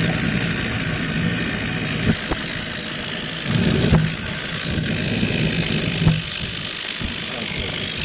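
Small homemade jet engine running with a steady hiss and a low throb, with a few sharp knocks about two seconds apart.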